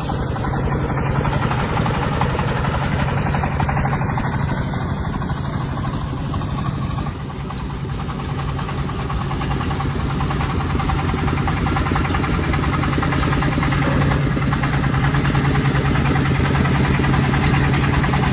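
Tractor engine running steadily with an even, rapid chugging.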